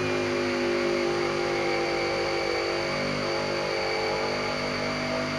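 Angle grinder with a wire wheel running steadily, a motor whine over a harsh scratchy hiss, as it strips paint from a car hood down to bare metal.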